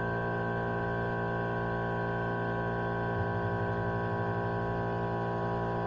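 Steady electrical hum with a dense stack of overtones, level and unchanging, with a low pulsing joining in about three seconds in. There is no welding arc crackle.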